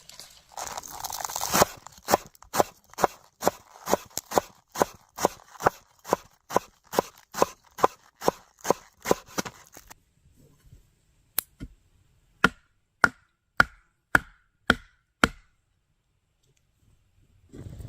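Food being chopped: steady, even chopping strokes a little over two a second. After a pause comes a shorter run of sharper strokes, each with a slight ring.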